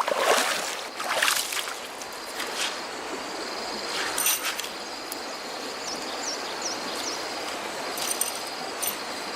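Water splashing and trickling, louder in the first couple of seconds, with a steady high trill and a few short high chirps over it.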